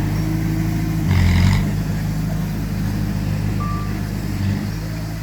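Heavy diesel machinery engine running steadily, with a brief louder rush about a second in. Near the end, a single short reversing beep sounds.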